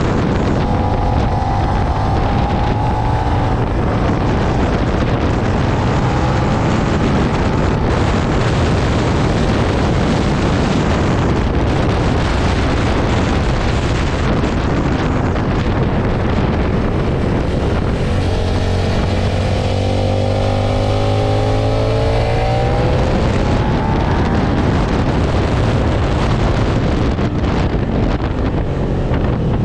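Suzuki SV650's 645 cc V-twin engine running on track under heavy wind rush on the microphone. About two-thirds of the way through, its pitch climbs as the bike accelerates.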